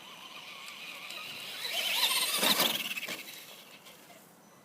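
Electric RC monster truck's motor and drivetrain whining under full throttle as it speeds up the ramp, growing louder to a peak about two and a half seconds in, then fading as it jumps away.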